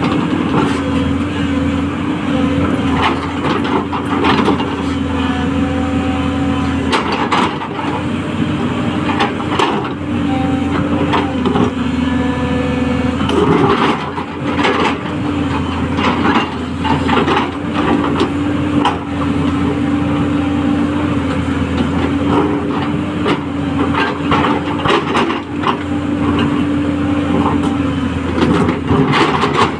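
210LC hydraulic excavator's diesel engine running steadily under working load, with repeated sharp knocks and cracks throughout.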